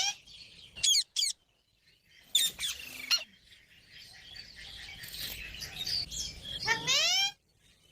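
Parrots calling: brief, sharp squawks that rise in pitch, with a run of softer chirping chatter between them and a longer rising squawk near the end.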